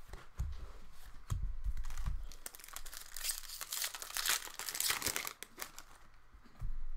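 Wrapper of an Upper Deck MVP hockey card pack crinkling as it is torn open and handled, with light clicks and handling knocks. The crinkling is loudest from about two and a half to five seconds in.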